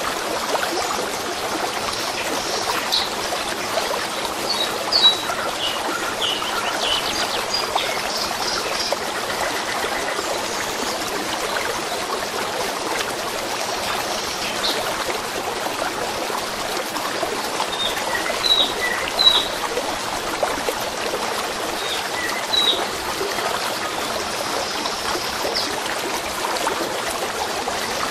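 Steady running water of a stream, with small birds chirping in short calls over it, now and then, clustered near the start and again past the middle.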